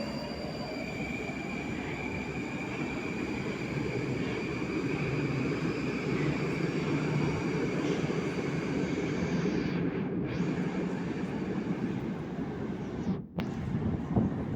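Moscow Metro 81-775/776/777 Moskva-2020 train with YaMZ traction motors moving along the platform: a high motor whine over a steady rumble of wheels that grows louder partway through.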